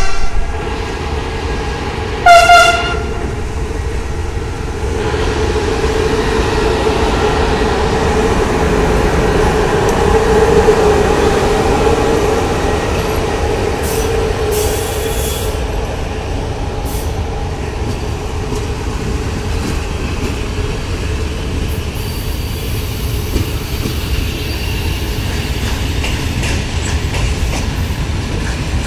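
A short locomotive horn blast about two seconds in, then the steady rumble and clatter of trains rolling through the station: a double-deck passenger coach and then freight wagons loaded with logs, with a drawn-out whine through the first half.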